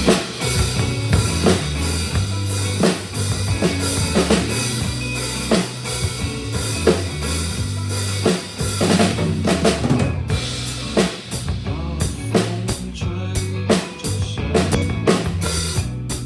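Drum kit playing a rock beat, with kick drum, snare and rimshots, over a backing track with a steady bass line.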